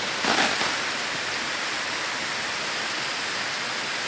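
Steady rain falling, an even hiss, with a brief louder burst about a third of a second in.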